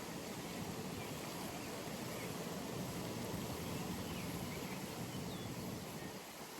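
Outdoor pond ambience: a steady low rumble of background noise, with a few faint bird chirps.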